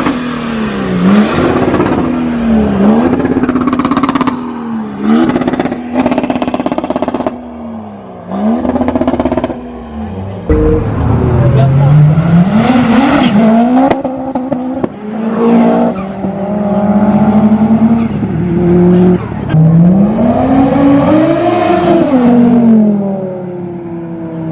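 Audi R8 engine revving hard again and again, its pitch dipping and climbing back, with sharp crackles about five seconds in. Near the end the pitch makes one long rise and fall as it accelerates.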